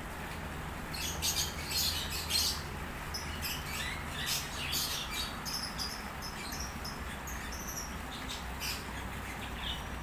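Small birds chirping: many short, high chirps, busiest in the first half and then scattered, over a steady low background hum.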